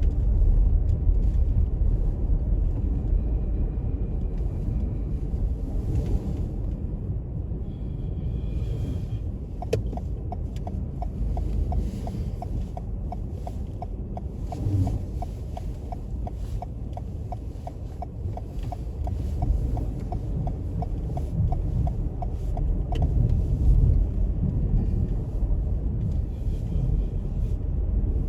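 Low, steady rumble of a car on the move. In the middle, for about thirteen seconds, a regular ticking comes in at about three ticks a second.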